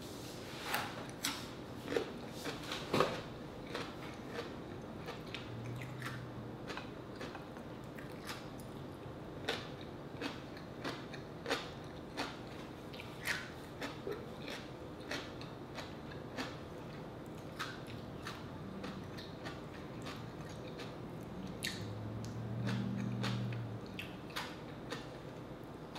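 Close-miked chewing: biting and chewing a crisp radish slice, with sharp crunches and wet mouth clicks, dense in the first few seconds and then spaced out. A short low hum comes about three-quarters of the way through.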